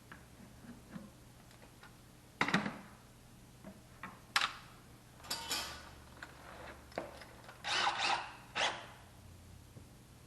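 A few separate knocks and clatters of objects being handled, spread out over several seconds, the longest a short rattling clatter about eight seconds in, over a low steady hum.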